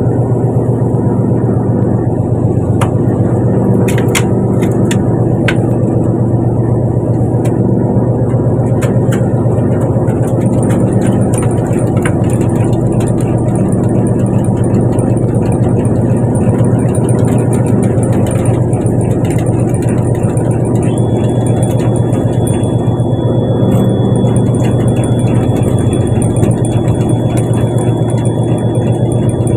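Fishing boat's engine running steadily with a deep, even drone. A few sharp clicks come early, and a thin, steady high whine joins about two-thirds of the way through.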